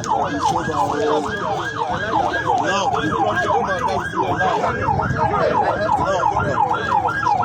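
Emergency vehicle siren sounding a fast yelp, its pitch sweeping up and down about four times a second without a break, over a low background of crowd noise.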